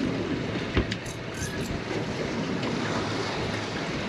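Wind buffeting and water sloshing around a small boat, with one sharp knock a little under a second in.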